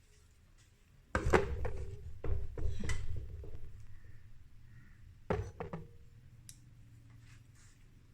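Tools and metal parts being handled: a clatter of knocks and clinks starting about a second in, then a couple of sharp knocks a few seconds later.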